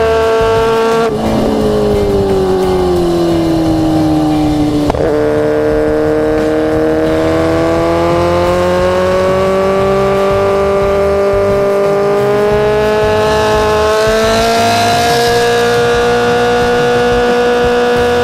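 Sportbike engine running hard at highway speed. Its pitch drops over a few seconds from about a second in, then climbs slowly as the bike accelerates and holds steady near the end.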